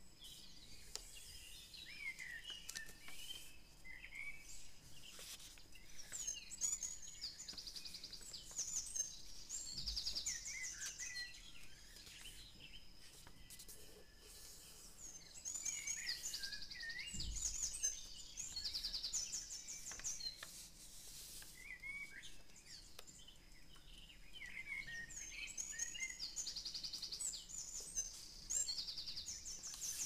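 Songbirds chirping and singing in bouts every several seconds, with quick repeated trills and short whistled up-and-down notes, over a faint steady background hiss.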